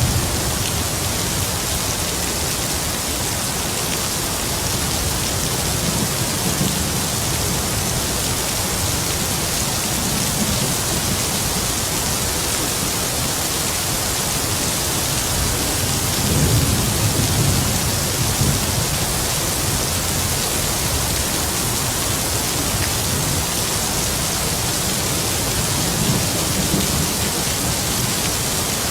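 Heavy rain falling in a steady hiss, with distant thunder rumbling low underneath. The rumbles swell and fade several times, the strongest about sixteen seconds in.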